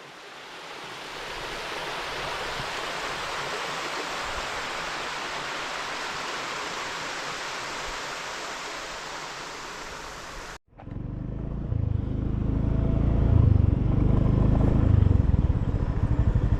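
A steady, even rushing noise that swells in over the first two seconds and cuts off abruptly about ten and a half seconds in. Then a moped's small engine running with a loud low rumble.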